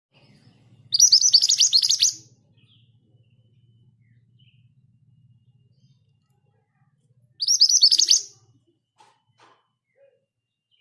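Scarlet minivet (mantenan gunung) singing two rapid, rolling high trills of about a second each, one about a second in and another some seven seconds in.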